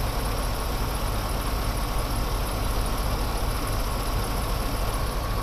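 2004 Chevy Suburban 1500's 5.3-litre V8 idling steadily, with a faint steady whine over the low engine note.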